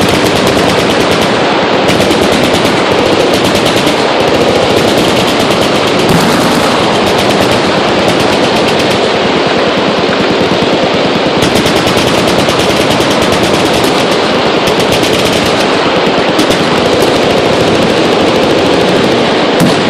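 Sustained automatic fire from many machine guns shooting at once, the shots running together into one continuous rattle with no pause.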